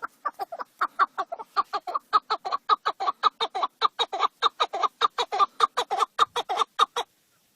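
Male chukar partridge calling: a rapid, even series of short chuk notes, about five or six a second, that stops shortly before the end.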